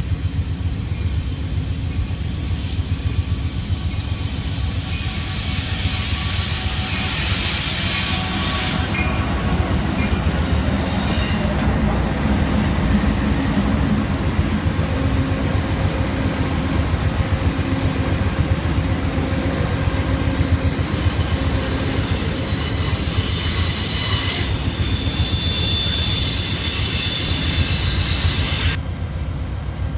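Union Pacific freight train rolling past close by: a steady rumble of wheels on rail, with high-pitched wheel squeal coming and going. Near the end the sound drops abruptly.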